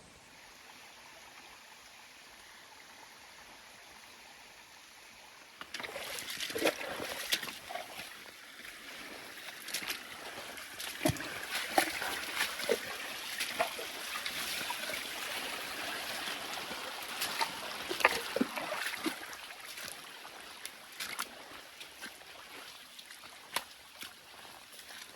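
Faint steady hiss, then from about six seconds in, watery noise with many irregular splashes, knocks and rustles.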